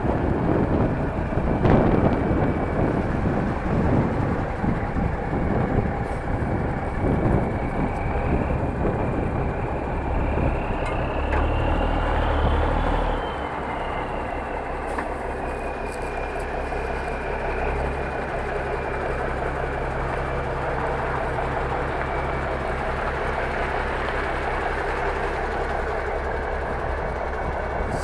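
Vehicle engines running. A thin whining tone rises and then falls about halfway through, and the rumble drops to a steadier, quieter running after that.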